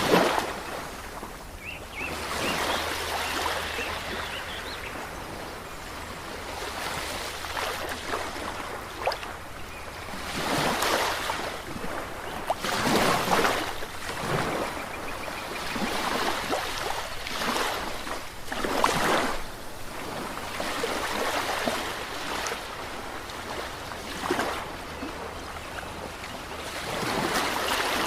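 Ocean waves breaking and washing ashore, a steady rush that swells and ebbs in irregular surges every few seconds.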